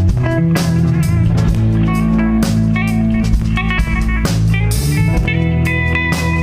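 Live rock band playing an instrumental passage: electric guitar melody over bass guitar and drum kit, with a steady beat of drum and cymbal hits.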